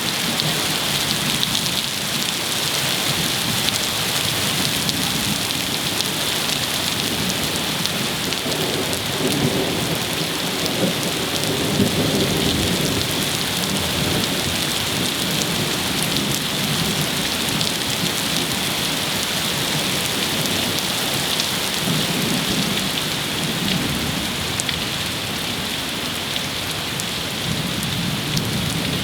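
Steady rain falling during a summer heat thunderstorm, with low thunder rumbling through it, most strongly in the middle and again in the second half.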